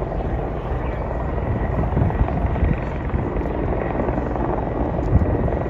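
A helicopter flying, its rotor and engine noise steady and dense, heaviest in the low end.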